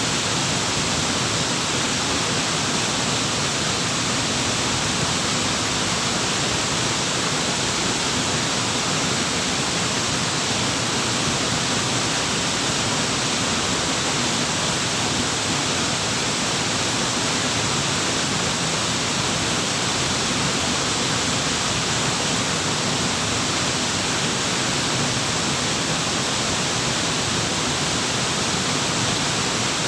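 Waterfall: a steady, unbroken rush of falling water, with no change throughout.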